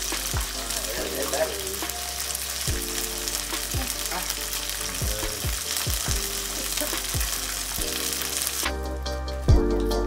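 Battered perch pieces deep-frying in a pan of hot oil: a steady sizzle that cuts off suddenly near the end.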